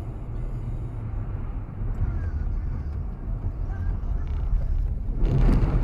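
Steady low rumble of a car's engine and road noise heard from inside the moving car. A sudden loud noisy burst a little past five seconds in stands out above the rumble.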